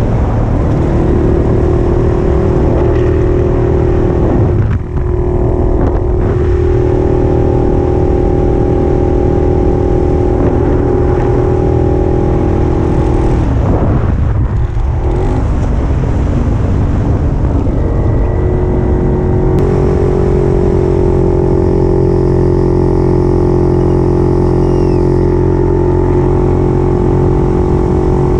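Puch 250 TF's two-stroke split-single engine running steadily under way. Its note breaks briefly twice, about five and fourteen seconds in, as if between gears.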